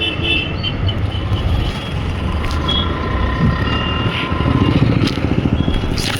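Motorcycle engine running while riding in road traffic, its low rapid pulsing getting louder about two-thirds of the way through.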